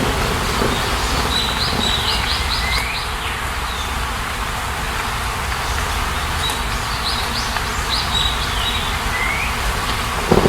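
A bird singing two short phrases of quick high chirps, each ending in a sliding note, over a steady rushing outdoor background.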